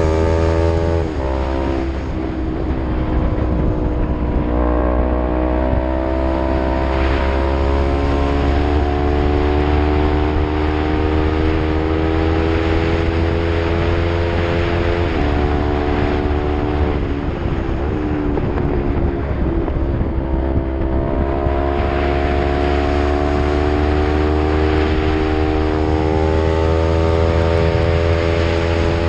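Yamaha MT-03 motorcycle with an Arrow full-system exhaust under load, its engine note climbing slowly and dropping sharply with upshifts about a second in, around eight seconds and around fifteen seconds, then dipping a few times before it climbs steadily again.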